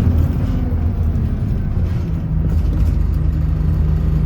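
Bus engine running with road noise: a steady low hum, with a steady engine note coming in about halfway through.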